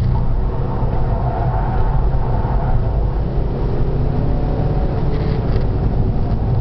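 SEAT Altea FR's engine running hard at speed on a race track, under a steady heavy low rumble of road and wind noise.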